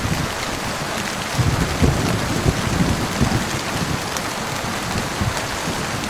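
Heavy rain falling steadily, with a low, uneven rumble of thunder underneath.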